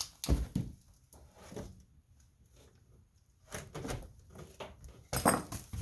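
Metal clunks and knocks as the Ford industrial gas engine is worked loose and shifted out of the Bobcat 742's engine bay, the loudest knock near the end.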